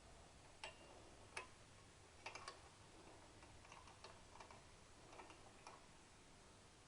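Faint, irregular metallic clicks of hand tools working nuts on a motorcycle, a few scattered ticks with a small cluster about two seconds in.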